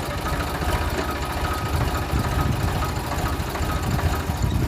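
Tractor engine running steadily, a continuous low, pulsing rumble.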